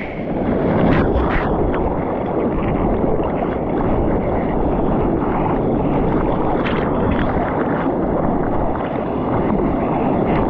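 Water rushing and splashing around a surfboard moving through surf, with wind buffeting the microphone. It runs steadily, with a few brief sharper splashes about a second in and again past the middle.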